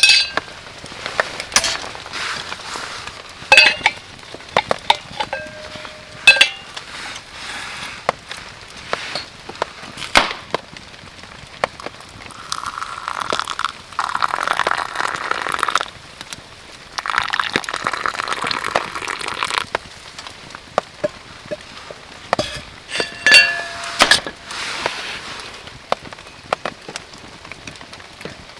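Repeated clinks and knocks of hard items being handled, some ringing briefly, with two steady rushing stretches of a few seconds each in the middle.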